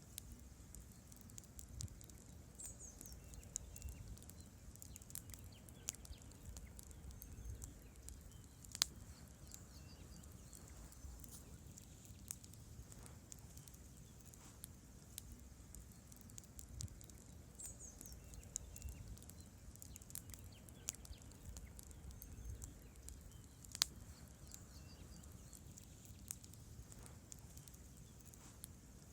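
Campfire of burning logs crackling: a steady run of small, quiet pops and ticks over a low rumble, with two sharp, louder snaps about nine seconds in and again about fifteen seconds later.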